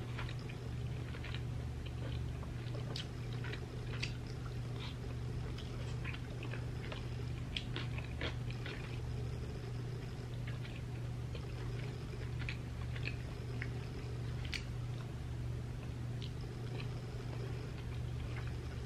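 Close-miked chewing and wet mouth clicks of someone eating saucy chicken tikka masala and rice by hand, irregular smacks and small crunches throughout. A steady low hum runs underneath.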